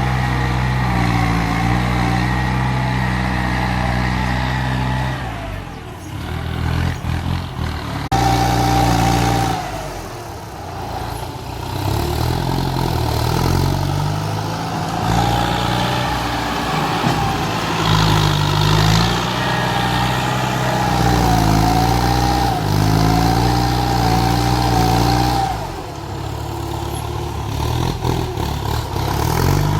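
Kubota tractor's engine running, its speed rising and falling repeatedly over a steady whine. The sound drops back several times and changes abruptly about eight seconds in.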